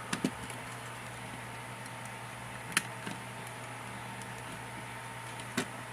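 Steady low hum of background noise with three short, light clicks spread through it, typical of a plastic action figure being handled and posed.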